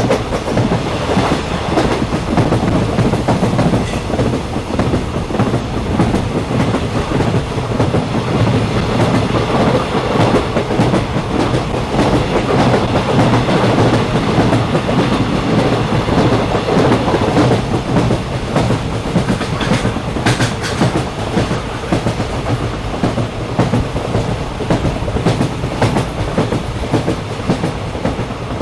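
Train running on rails: a steady rumble with the clickety-clack of wheels over the track, and a brief higher hiss about twenty seconds in.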